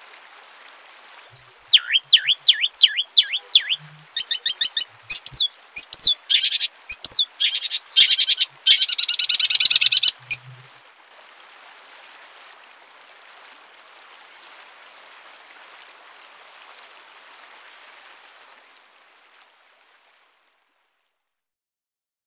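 Songbird singing loudly: a run of quick swooping whistles, about three a second, then rapid trills and sharp high notes, stopping abruptly about ten seconds in. A faint steady hiss remains and fades out near the end.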